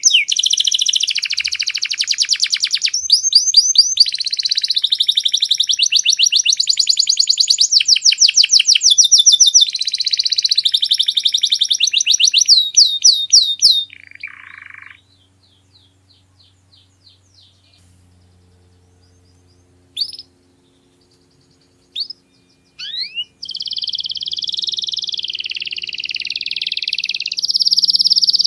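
Domestic canary singing long, fast trills and rolling phrases of rapidly repeated notes. The song breaks off about halfway through, leaving a few seconds with only a few isolated chirps, then starts up again near the end.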